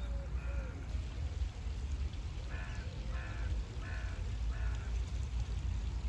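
A bird gives four harsh calls in a quick, even series, starting about two and a half seconds in, over a steady low rumble.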